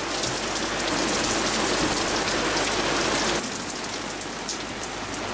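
Heavy rain pelting the yacht's canvas cockpit cover and deck as a steady dense hiss, easing slightly about three and a half seconds in.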